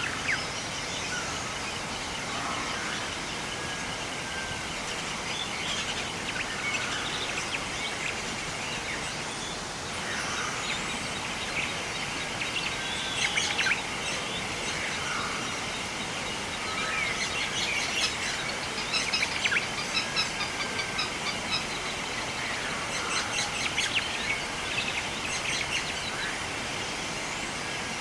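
Several wild birds chirping, whistling and trilling over a steady rushing background noise, the calls coming thicker in the second half.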